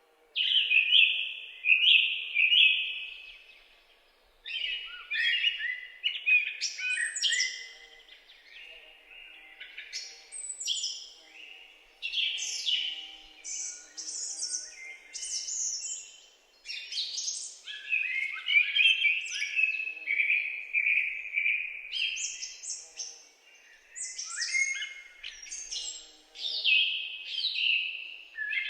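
Several songbirds singing and chirping together, a busy overlapping chorus of quick high chirps, trills and twittering phrases.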